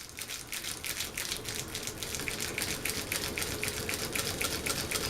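Harbor Breeze Vector Elite ceiling fan running, with a rapid, even ticking several times a second over a steady rush of air and a faint hum.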